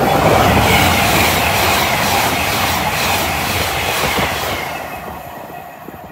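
LNER Azuma high-speed train passing through at speed: a loud rush of wheel and air noise with rapid, evenly spaced clicking of wheels over the rails. It fades away after about four and a half seconds as the train draws off.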